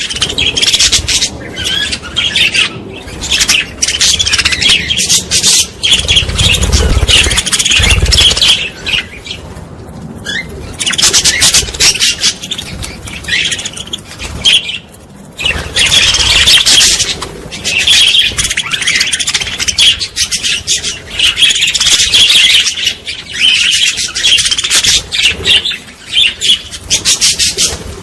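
A group of small birds chirping and twittering in dense, overlapping bouts that pause briefly now and then, with a few low thuds about six to eight seconds in.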